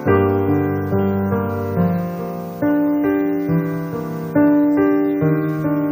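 Slow piano chords, each struck and left to ring and fade, with a new chord every second or two: the instrumental interlude of a slow pop ballad between sung lines.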